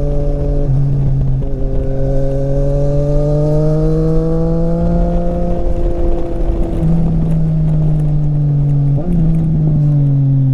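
Triumph Street Triple RS 765 cc inline-three with an SC-Project exhaust, heard while riding on the road. The revs climb slowly for several seconds, then the note breaks off twice as the throttle is eased, and the revs fall away near the end. Wind rumbles under the engine note.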